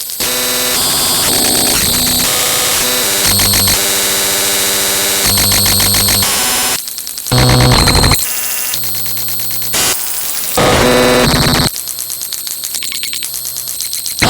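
Loud, harsh electronic static and buzzing noise with steady tones mixed in, jumping abruptly from one texture to another every second or two.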